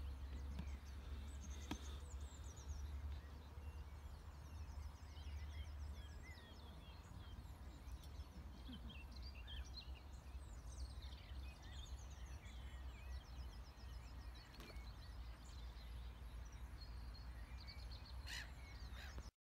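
Several small birds singing and chirping with short calls and trills, over a steady low rumble; the sound cuts off suddenly near the end.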